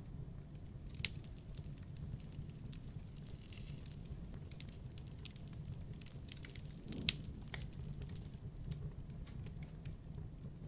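Campfire crackling: scattered sharp pops over a low steady rumble, with two louder snaps about one second and seven seconds in.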